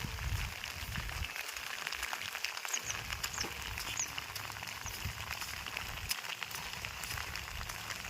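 Light rain falling, with a steady patter of scattered drops and wind buffeting the microphone on and off. A few short, high chirps sound around the middle.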